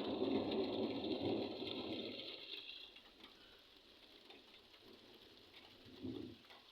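Thunder rumbling and fading away over the first two to three seconds, then only faint background. A short dull thump comes about six seconds in.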